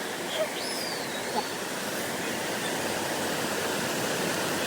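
Waterfall rushing steadily, with a faint high gliding note about half a second in.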